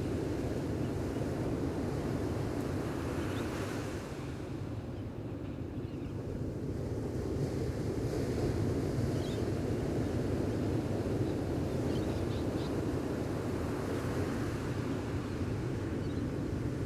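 Gentle ocean waves washing on a beach: a steady low wash that eases off about four seconds in, then swells again, with a few faint high chirps.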